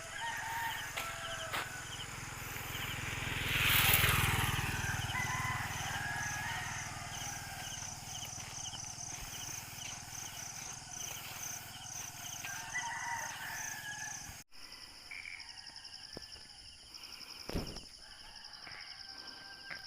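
Rural dawn ambience: roosters crowing in the distance over a steady pulsing chirp of insects, with a rushing noise that swells and fades about four seconds in.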